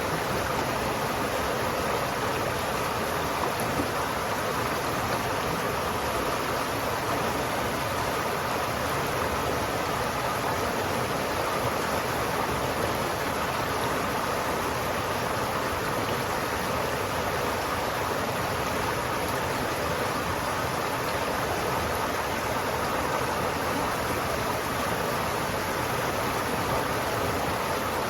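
River water flowing steadily, an even rushing noise without breaks or changes.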